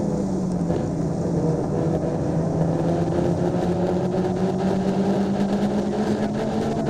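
Honda Civic Si engine running hard, heard from inside the cabin over steady road and wind noise. Its pitch sags briefly about a second in and climbs again near the end as the car accelerates.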